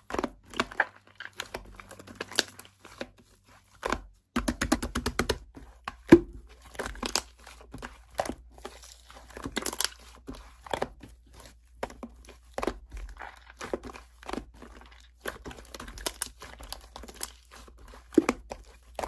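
Slime being squished and pressed by hand, giving a dense run of irregular sticky clicks and crackles.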